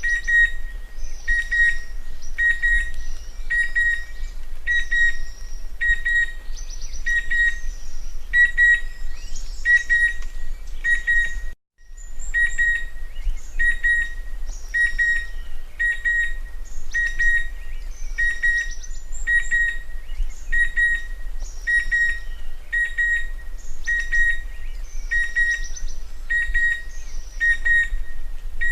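Chestnut-winged cuckoo calling: a whistled double note repeated about once a second, with other birds calling higher in the background. The sound cuts out for a moment about twelve seconds in.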